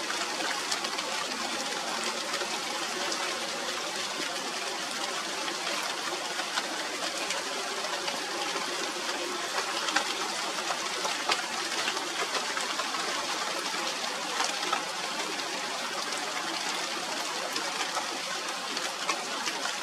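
Steady rain falling on a tree's leaves: an even hiss dotted with many small drop ticks.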